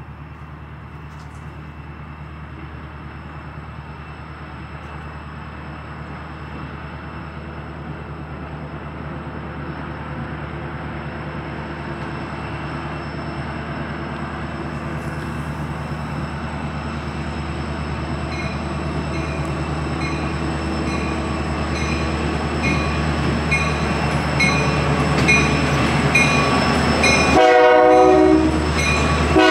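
A passenger train approaching, its rumble growing steadily louder, with a regular clicking beat coming in over the last ten seconds. Near the end the train sounds a loud, chord-like warning blast of several tones at once.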